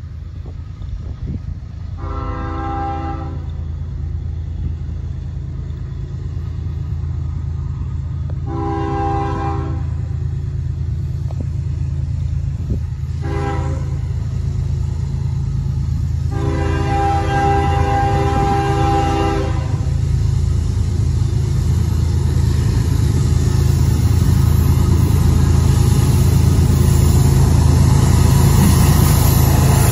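CSX freight train's diesel locomotive sounding its horn, a multi-note chord, in the long-long-short-long pattern of a grade crossing warning. Its engine rumble grows steadily louder as it approaches, with wheel-on-rail noise building near the end.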